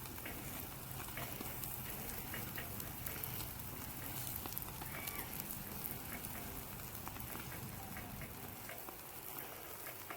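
Meat sizzling directly on hot campfire coals: a steady hiss with many small crackles and pops.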